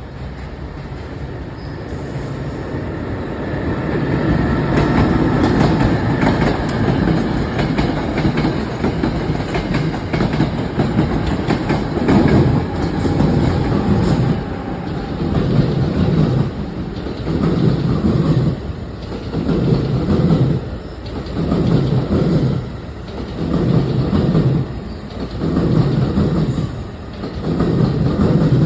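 NJ Transit passenger trains passing on the rails. A rumble builds over the first few seconds, then turns into a regular clickety-clack pulse a little more than once a second as the cars roll by.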